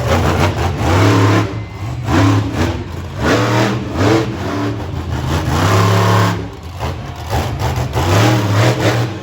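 Monster truck engine revving hard in repeated short bursts, each a second or so long, with brief drops in between.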